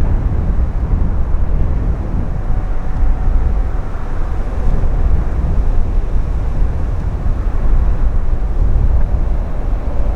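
Wind rumbling on the microphone, with the faint steady drone of a distant aircraft engine.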